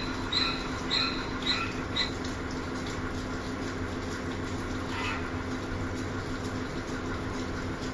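Small bird chirping, short high chirps about twice a second for the first two seconds, then one more call about five seconds in. Under it runs a steady low hum.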